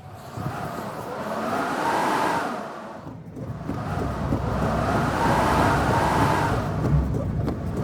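Blizzard wind gusting and howling, swelling and dying away in waves every few seconds, with a low rumble of buffeting underneath.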